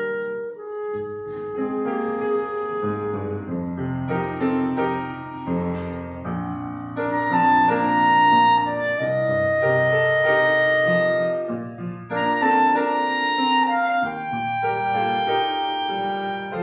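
Instrumental offertory music: slow, sustained melody notes in a clarinet-like timbre over held keyboard chords.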